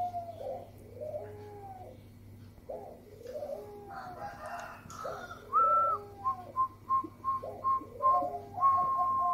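Zebra doves (perkutut) cooing: a repeated series of low arching coos, then a run of short higher notes about six seconds in that leads into one long held note near the end.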